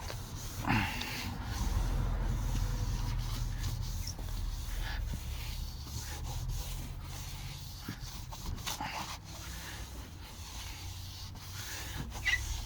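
Plastic car headlight lens being scrubbed and wiped with soapy water, irregular rubbing strokes over a steady low rumble.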